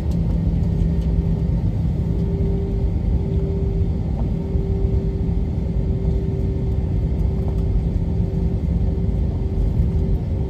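Steady cabin noise inside an Airbus A321: a low, even rumble of engines and airflow, with a steady hum running through it.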